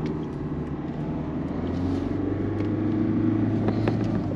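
Inside the cabin of a Peugeot 207 1.4-litre turbo diesel driving slowly: a steady low engine hum and road noise that swell a little in the middle. No clunk comes from the repaired front suspension.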